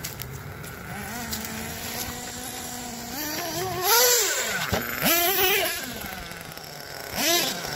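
Red Cat Earthquake 3.5 RC monster truck's small two-stroke nitro engine idling steadily, then revving hard in three short bursts about three, five and seven seconds in. Its pitch climbs and falls with each burst of throttle.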